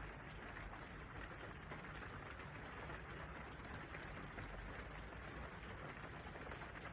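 Steady rain falling outside, heard from indoors.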